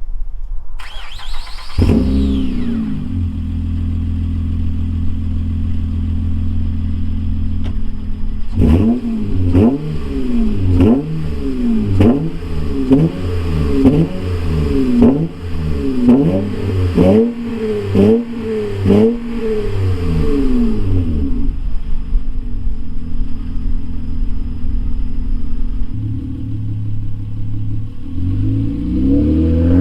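2008 Acura TL Type S's 3.5-litre V6 through a mid- and rear-muffler-delete exhaust. It starts up about two seconds in and idles, then is blipped about a dozen times, roughly once a second. It settles back to idle and starts revving again near the end.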